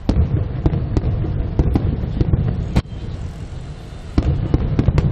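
Aerial fireworks going off: a quick run of sharp cracks over a continuous low rumble of bursting shells. The loudest bang comes a little under three seconds in. The cracks then thin out for over a second before a fresh volley.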